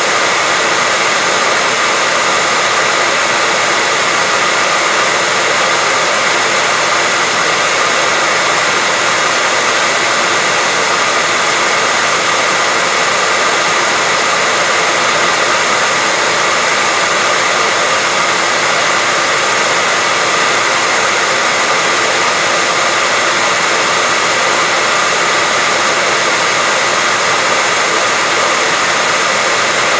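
Electric hair dryer running steadily, a constant airy rush with a faint high whine, used as white noise to help a baby sleep.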